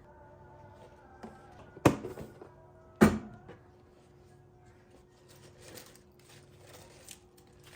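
Two sharp knocks about a second apart, followed by a few light taps, over a faint steady hum.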